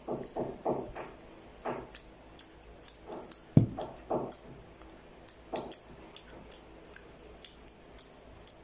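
Close-up chewing and wet mouth clicks from children eating homemade tuna pie, in short irregular bursts, with one sharp thump about three and a half seconds in.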